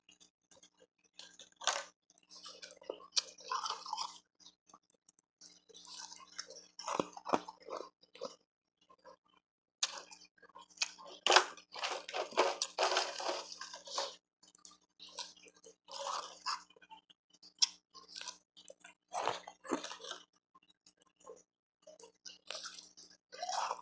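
Close-up crunching and chewing of refrozen powdery ice and hard ice pieces, in bursts of sharp cracks of a few seconds each with short pauses between bites.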